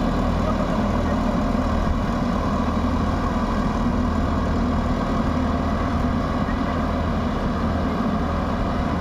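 Diesel engine of a heavy farm machine running steadily with a low, even drone.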